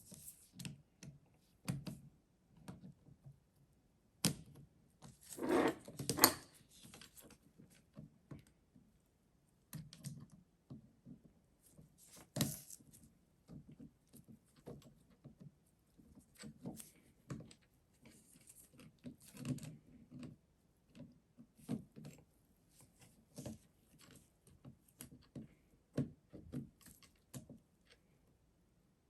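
Irregular small metal clicks, taps and knocks from snap-ring pliers working on a Denso starter's internal retaining ring, with a louder clatter about five to six seconds in and a sharp click near the middle.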